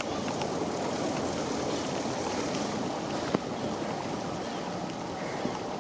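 Heavy rain and running water: a steady, even rushing noise, with one brief knock about three seconds in.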